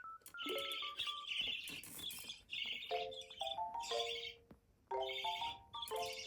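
Background music of stepped melodic notes, with a budgerigar's rapid chattering chirps in short bursts throughout.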